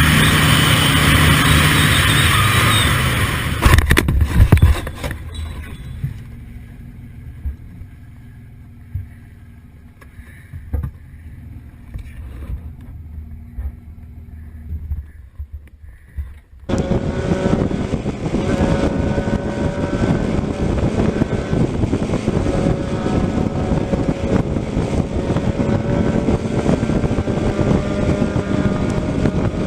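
Vehicle driving noise, then a cluster of loud crash impacts about four seconds in, followed by a quieter stretch with scattered knocks. About halfway through it cuts abruptly to a car engine running, its pitch rising near the end.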